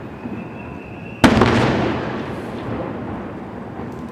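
Fireworks display: a shell bursts with one sharp, loud bang about a second in, its boom echoing and dying away over the next second or so.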